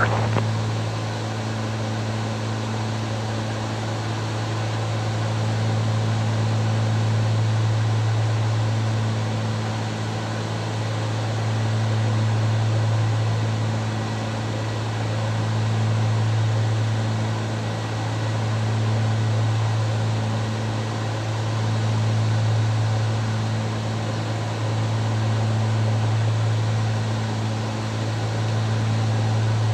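Cockpit drone of a Cessna 310's twin piston engines and propellers in cruise flight: a steady low hum over a wash of rushing noise, slowly swelling and fading every few seconds.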